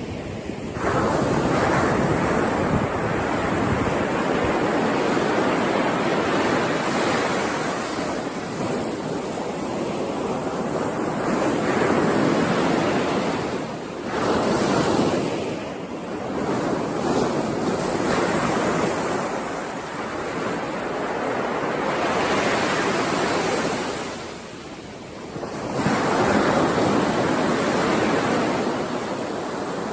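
Ocean surf: waves washing in and drawing back in long, continuous swells, with a few short lulls between surges.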